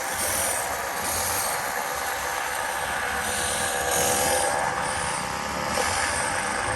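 Small motorbike engine running at a steady pace while riding, with a steady rushing noise alongside.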